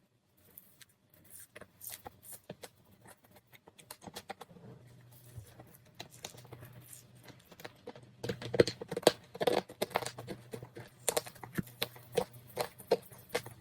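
Close-miked mouth sounds of someone eating marshmallow: soft, sticky clicks and lip smacks as it is chewed. They are sparse at first and become denser and louder about two-thirds of the way through.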